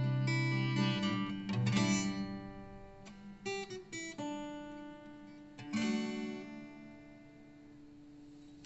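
Acoustic guitar playing a few closing plucked notes and strums, ending on a last chord about six seconds in that rings out and fades away.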